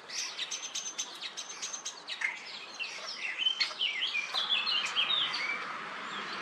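Common starlings calling: a rapid, busy run of short chirps, whistles and clicks, with a steady hiss setting in about four seconds in.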